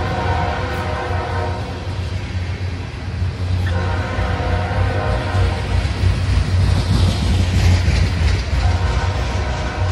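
Loaded coal hopper cars of a freight train rolling past, a steady heavy rumble of wheels on rail.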